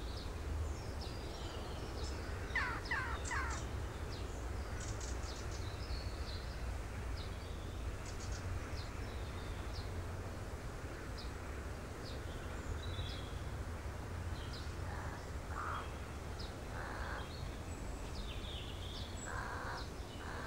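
Outdoor ambience: birds chirping and calling, with a few louder falling calls about two and a half seconds in, over a steady low rumble.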